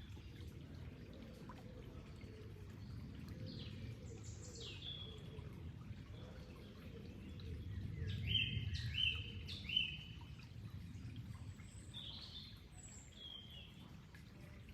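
Birds calling over the steady low rush of flowing water. There are single calls about four seconds in and near the end, and a quick run of three or four short notes about eight seconds in, which is the loudest sound here.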